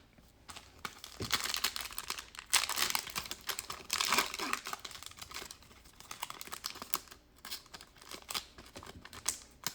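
The crinkly foil wrapper of a Prizm basketball card pack crackling and tearing as it is ripped open, loudest in the first half, then lighter crackles and clicks as the wrapper and cards are handled.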